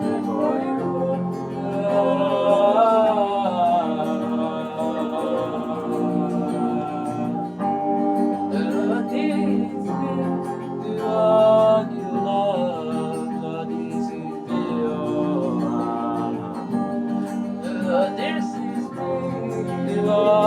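Slow gospel worship music: a sustained keyboard pad and guitar, with a voice singing wordless, gliding melodic runs over them.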